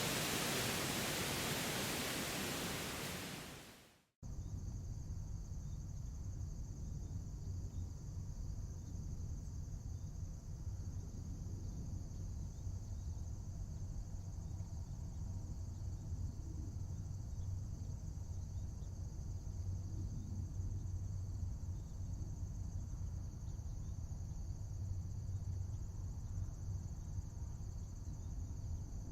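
A steady rushing noise fades out about four seconds in, with a moment of silence. Then crickets chirp steadily and continuously over a low rumble.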